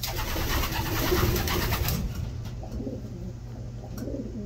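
A loud rustling noise for about the first two seconds, then racing homer pigeons cooing low in the loft.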